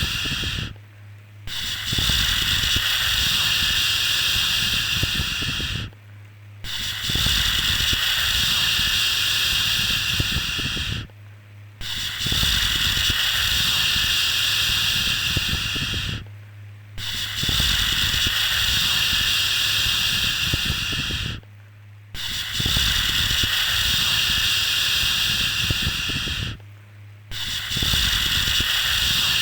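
A shushing 'shhh' sound repeated in a steady loop: long hushes of about four and a half seconds each, with a brief pause of well under a second between them, six times in all.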